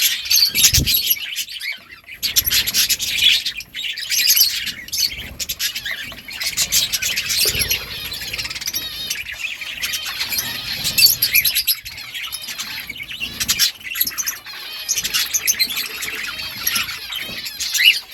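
Budgerigars chirping and chattering without pause: a dense run of short, high, overlapping chirps.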